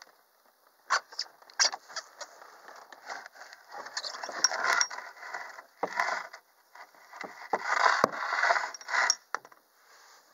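Irregular clicks, knocks and scraping noises from a canoe and its gear being handled, with a few louder stretches of scraping.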